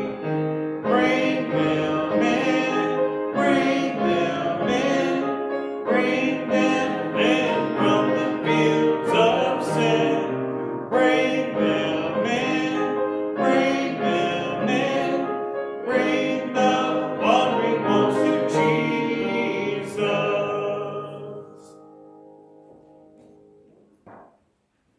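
A hymn sung with piano accompaniment; the music ends about 21 seconds in and dies away into quiet.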